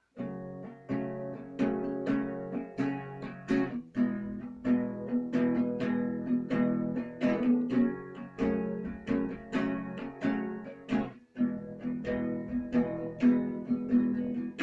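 Acoustic guitar strummed in a steady rhythm, playing the instrumental intro of a song. There is a short break in the strumming about eleven seconds in.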